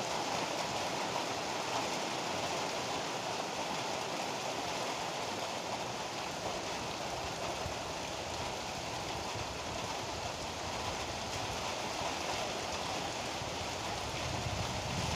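Heavy rain pouring steadily, an even hiss of downpour. Near the end a low rumble of thunder begins to build.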